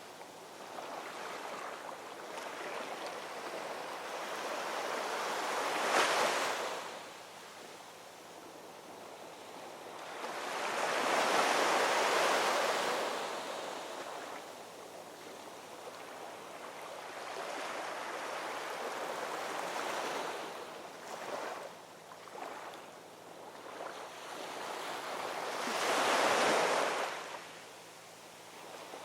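Ocean waves breaking and washing on a shore, rising and falling in slow surges: three or four main waves break, about six seconds in, around twelve seconds and near the end.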